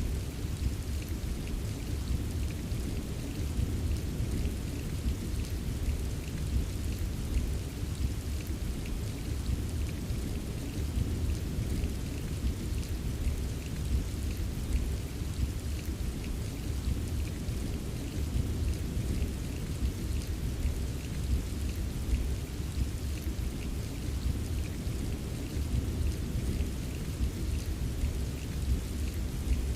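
Steady rain ambience: an even wash of falling rain with many small drop ticks over a constant deep low rumble.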